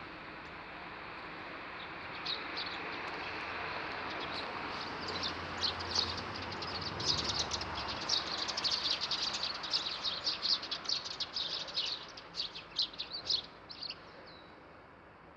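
Small songbirds chirping: many short, high chirps in quick succession, thickest through the middle and thinning out near the end, over a steady rush of background noise that swells and then fades.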